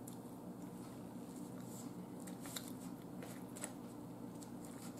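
Faint chewing of pancakes and sausage, with small wet mouth clicks and ticks scattered through, over a steady low hum.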